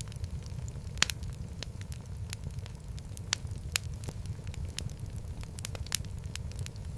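Wood fire in a fireplace crackling: a steady low rumble of burning with irregular sharp pops and snaps, the loudest about a second in.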